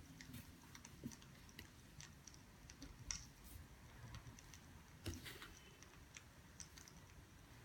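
Faint crackling of burning firewood: irregular small pops and clicks, a few sharper ones about one, three and five seconds in.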